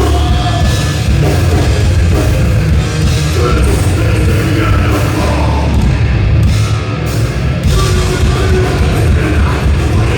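Thrash metal band playing live at full volume: distorted guitars, bass and drum kit in a dense, steady wall of sound.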